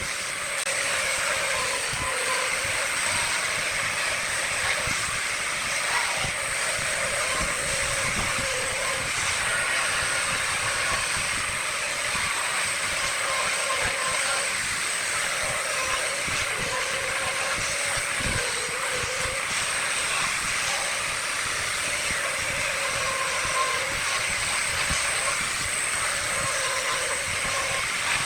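Wood lathe running while a turning tool cuts into the spinning wood, giving a steady scraping hiss with a faint wavering hum underneath.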